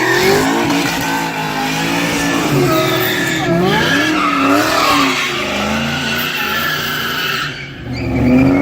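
Car engines revving up and down, several at once, with tyres squealing from burnouts. Near the end the noise drops away briefly, then a loud rev swells up.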